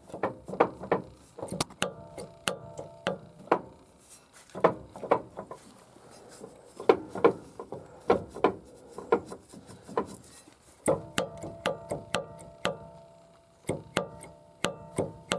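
Worn-out U-joints on a truck's front four-wheel-drive driveshaft being rocked back and forth by hand, clacking and knocking irregularly several times a second with a brief metallic ringing in places: the joints have so much play that they are shot.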